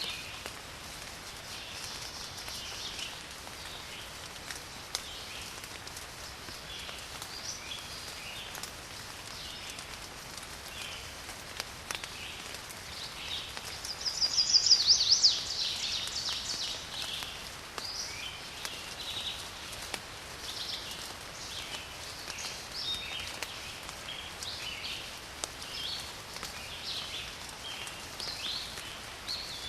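Small birds chirping and calling again and again over a steady hiss of light rain, with scattered faint drip ticks. About halfway through, one louder and closer burst of high calls stands out for a second or two.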